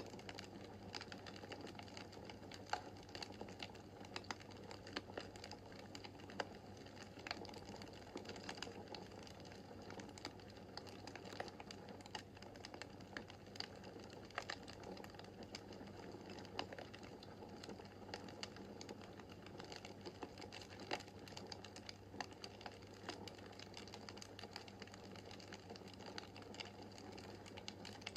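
Wood fire in a fireplace crackling: irregular sharp snaps and pops over a soft steady hiss of the flames.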